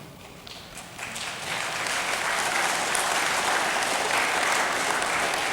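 A congregation applauding in a large room. The clapping starts about a second in, swells quickly and then holds steady.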